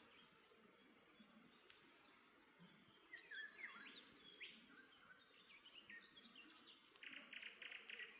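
Small songbirds chirping faintly: scattered short calls from about three seconds in, and a fast trill near the end. A few faint crackles from a campfire come earlier.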